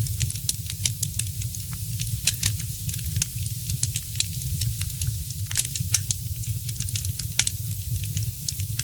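Wood fire in a fireplace crackling: many sharp little snaps and pops at irregular intervals over a steady low rumble.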